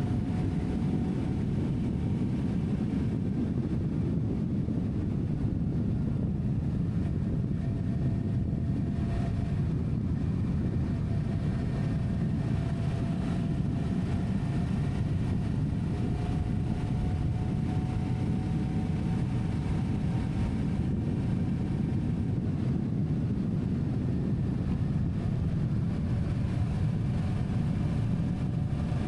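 Steady low rumble of a running vehicle, with faint tones that drift slowly up and down in pitch.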